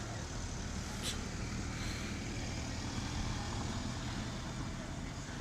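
Tram running on street track: a steady low rumble with an even noise of wheels on rails, and a short click about a second in.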